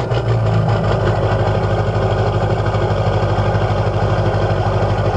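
LB7 Duramax 6.6-litre V8 turbodiesel idling just after a cold start, with an even pulsing beat. The idle is lopey, as this engine runs when cold.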